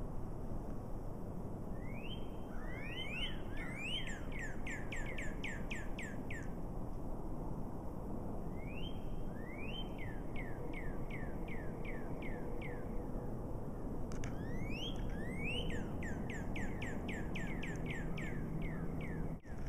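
A songbird singing three phrases, each opening with a couple of rising whistles and running into a quick series of about eight short falling notes, over a steady outdoor background hiss.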